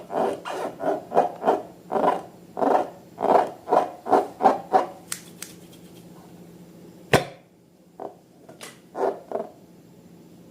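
Balloons and slime being squeezed and rubbed in a quick rhythmic series of squishing noises, about two a second, that stop about five seconds in. A sharp snap follows a couple of seconds later, then a few light clicks.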